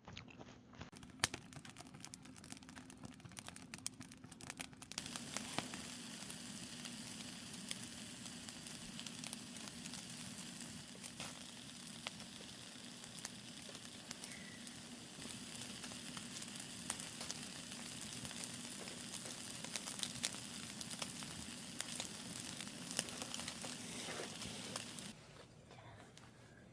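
Eel sizzling on a grill over a campfire, a dense crackling hiss with many small pops. It swells about five seconds in and cuts off suddenly near the end.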